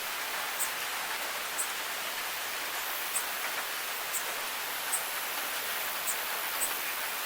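Steady rain falling, an even hiss, with sharp high-pitched drip ticks about once a second.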